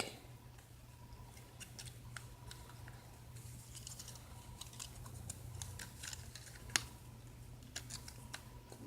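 Faint, irregular light clicks and taps from handling small silk nail wraps at a nail, with one sharper click about two-thirds of the way through.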